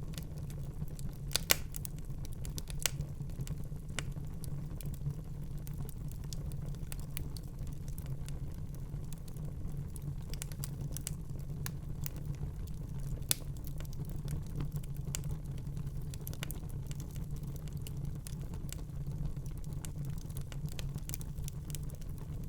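Wood fire crackling in a fireplace: irregular small pops and snaps over a steady low rumble, with a sharper pop about a second and a half in.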